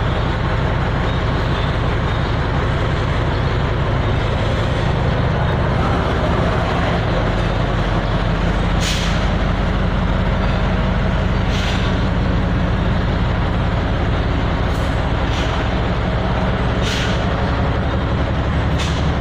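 Isuzu 10PD1 V10 diesel engine of a concrete pump truck running steadily, with short hissing bursts every two to three seconds in the second half.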